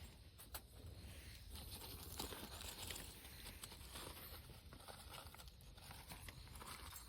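Irregular crinkling and rustling of something being handled, with scattered small clicks.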